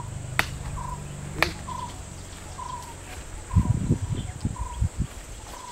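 A bird repeats one short call note about once a second. Two sharp clicks come in the first second and a half, and a few low thuds a little past halfway.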